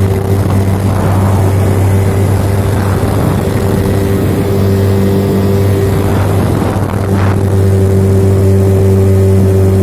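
Hangkai 6 hp outboard motor running at a steady speed with the boat under way, its pitch holding constant. Rushing water and wind noise swells over it about a second in and again near seven seconds.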